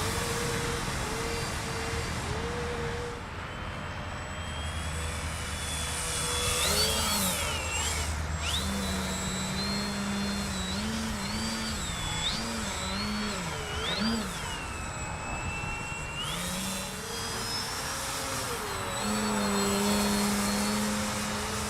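Electric RC aerobatic biplane in flight: the whine of its brushless outrunner motor and propeller keeps rising and falling in pitch as the throttle changes.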